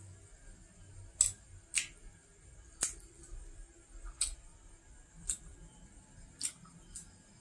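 Crisp crunches from chewing fried nom krouch pastry, a Khmer dessert, close to the microphone: about seven separate crunches a second or so apart, the loudest a little over a second in.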